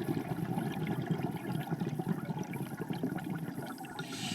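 Underwater audio: a diver's exhaled scuba bubbles gurgling in a dense, irregular stream, with faint crackling ticks in the water.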